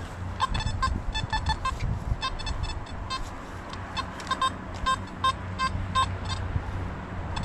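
Metal detector giving short electronic beeps as the coil sweeps the ground, about three a second at uneven spacing, over a low rumble.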